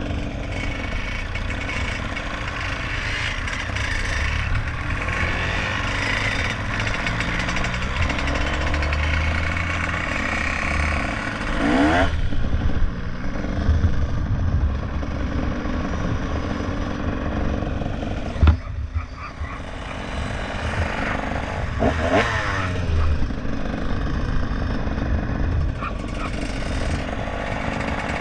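Motorcycle engine running under way with a steady rumble. Its pitch rises and falls as it revs about 12 seconds in and again about 22 seconds in, and there is a short knock at about 18 seconds.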